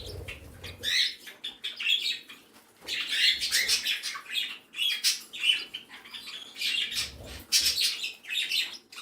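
A mixed flock of small pet parrots and finches, budgerigars among them, chirping and chattering continuously in quick, high calls. A low rumble comes near the start and again about seven seconds in.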